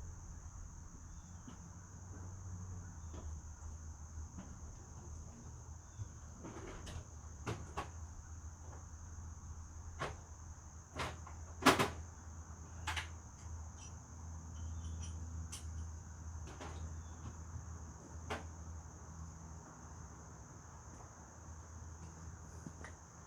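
Steady high-pitched insect chorus, typical of crickets, with a low hum underneath. Scattered sharp knocks and clanks sound through it, the loudest about 12 seconds in.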